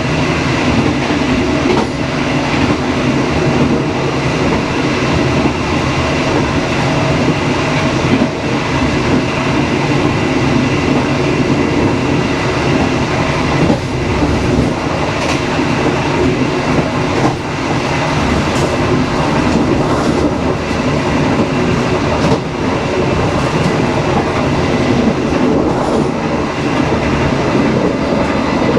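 Passenger train running steadily along the track: a continuous rumble of wheels on rails with a few scattered knocks from the rail joints.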